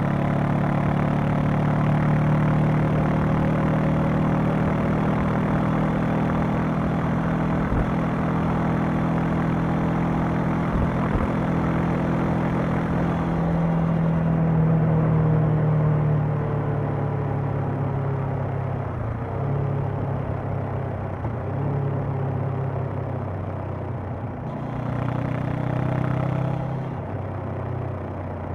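Honda CB500X parallel-twin engine and exhaust running on the road at a steady throttle, with wind noise. About halfway through it eases off and gets quieter, swells briefly near the end, then falls back again.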